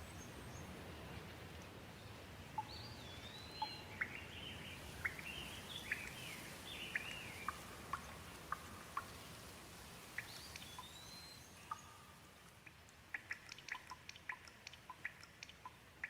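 Faint, gentle rain falling as a soft steady hiss, with a bird giving short chirping and gliding calls in the first half. Toward the end the hiss thins and quick separate drips tick out.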